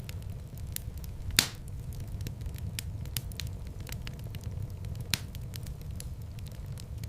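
Wood fire crackling: scattered small snaps over a steady low rumble of the flames, with a loud pop about one and a half seconds in and another sharp one about five seconds in.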